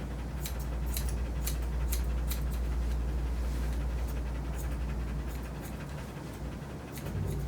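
Portuguese Water Dog panting in quick, rhythmic breaths over a steady low hum.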